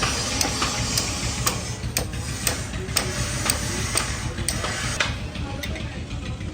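Sharp knocks repeating evenly, about two a second, over a steady low machine hum.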